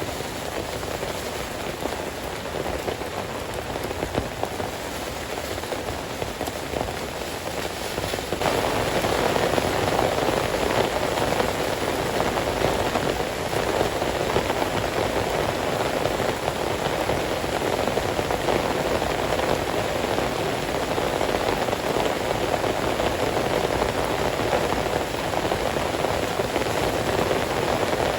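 Heavy rain falling steadily, a dense even patter that grows louder about eight seconds in.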